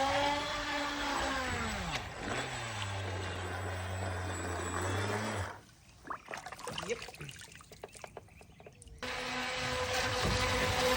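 Brushless electric motor of an RC racing boat whining, rising and falling in pitch, then holding a steady lower whine that cuts off suddenly about five seconds in. A few seconds of near quiet with faint clicks follow before the motor whine starts again near the end.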